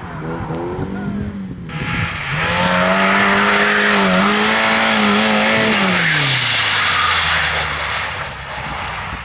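Rally car passing close at speed, its engine held high with a brief dip about four seconds in, then its note falling away as it goes by, with a loud rush of tyre noise at the height of the pass.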